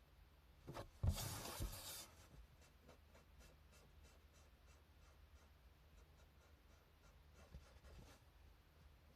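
Hand drawing on paper: a loud scratching rub lasting about a second, about a second in, followed by faint, short strokes.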